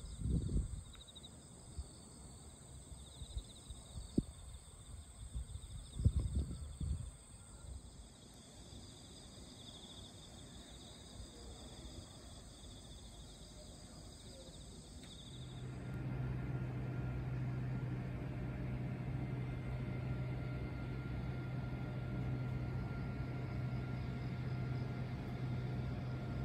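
Insects calling steadily outdoors, a high-pitched shrill with a pulsing trill under it, broken by a few low rumbles near the start and about six seconds in. About sixteen seconds in it cuts to a steady low electrical hum of an indoor room.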